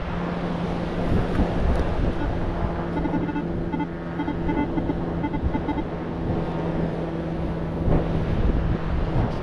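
Wind buffeting the microphone, with a metal detector's steady low hum and, from about three to six seconds in, a stretch of rapid beeping as it sounds off on a target.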